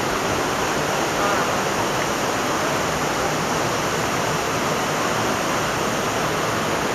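Steady rush of a waterfall, water pouring and splashing without a break.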